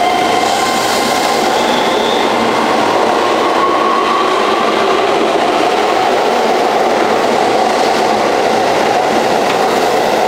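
Keihan 3000 series electric train accelerating away from an underground station platform: a steady, loud rumble of wheels on rail, with a traction-motor whine that rises slowly in pitch.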